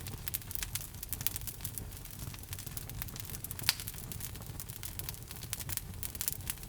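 Wood logs crackling in a fireplace: frequent small irregular pops and snaps over a low steady rumble of the flames, with one sharper pop a little past the middle.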